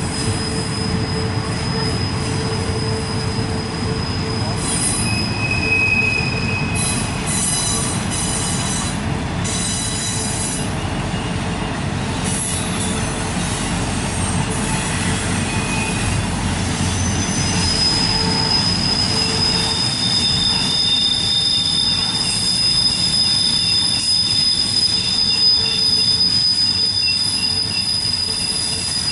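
Intermodal freight cars rolling through a tight curve: a steady rumble of steel wheels on rail with high, sustained wheel flange squeal from the curve. The squeal drops away mid-way and comes back stronger in the second half.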